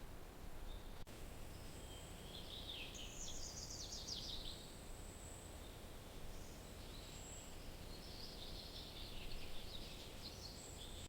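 Songbirds chirping in quick, rapid runs of high notes, in two spells, over a steady low outdoor background noise.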